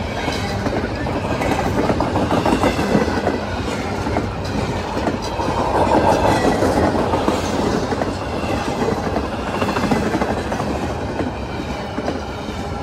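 Intermodal freight train's double-stack well cars rolling past: a steady rumble of steel wheels on rail with a running clickety-clack of wheels over the rail joints.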